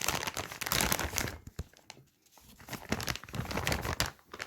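Plastic packaging of grilled chicken strips crinkling as it is handled, in two spells with a short quiet gap about two seconds in.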